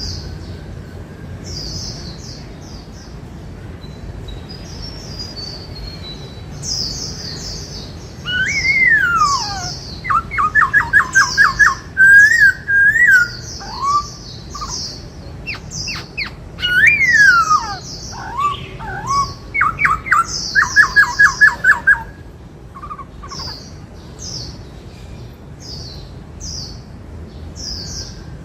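Black-throated laughingthrush singing: loud, clear whistled phrases with falling slurs and quick runs of repeated notes, starting about eight seconds in and stopping about twenty-two seconds in. Fainter short high chirps go on throughout.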